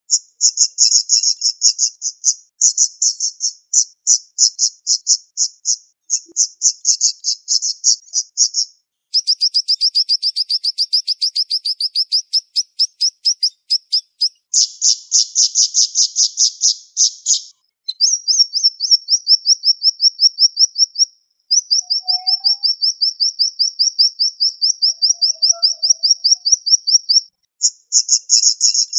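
Siri-siri bird singing sharp, rapid trills of quickly repeated high notes in runs of a few seconds, with short breaks between runs.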